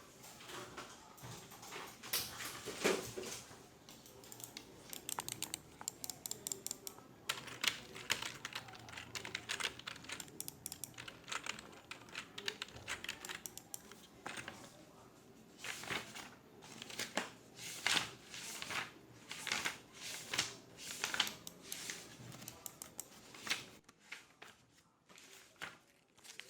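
Computer keyboard typing in irregular bursts, with runs of fast keystrokes separated by short pauses, in an office.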